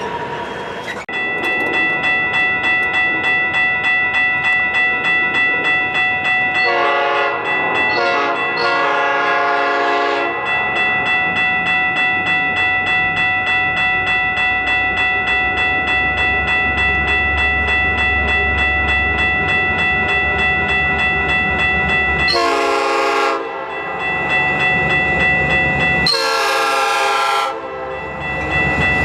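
A grade-crossing bell rings steadily while a Metra commuter train's diesel locomotive sounds its horn: two long blasts about seven to ten seconds in, then a short blast and a long one near the end. A low rumble of the passing train comes in between.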